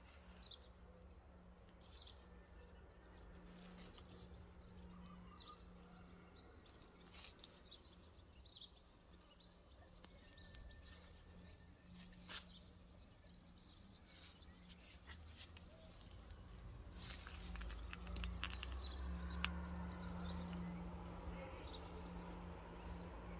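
Faint garden ambience: scattered small bird chirps over a low, steady rumble with a faint hum. The rumble grows louder over the last several seconds.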